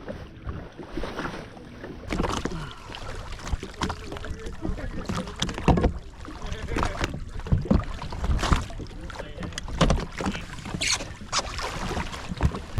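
Wind buffeting the microphone on a jet ski sitting still on the water, with irregular knocks and handling noises; no engine running.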